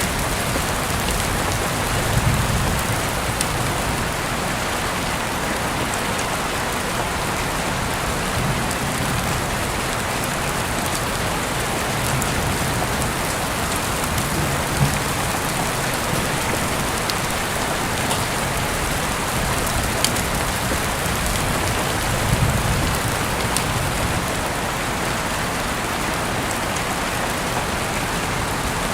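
Heavy rain falling steadily, with a few sharp louder drop hits and a couple of brief low swells.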